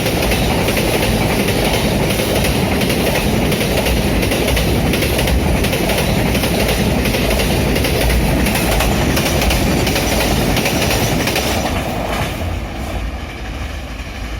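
A train running past close by: a loud, steady rumble and rattle of wheels on rail that begins to fade about twelve seconds in.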